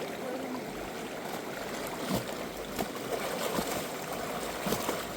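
River water flowing steadily, with a few short splashy clicks.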